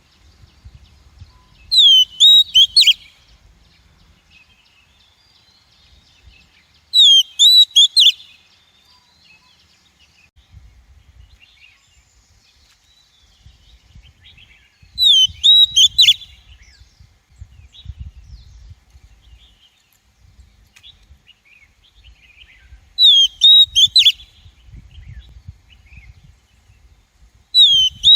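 Female oriental magpie-robin calling: a short, loud phrase of quick sweeping whistles, each about a second long, repeated five times at intervals of several seconds, the last starting near the end. It is a lure call used to draw in wild magpie-robins.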